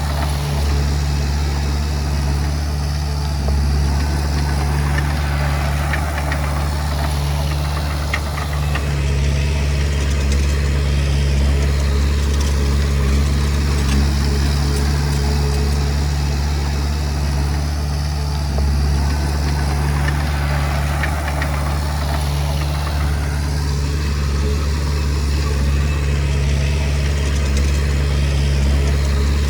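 Komatsu D20P crawler bulldozer's diesel engine running steadily, with small shifts in load as it works.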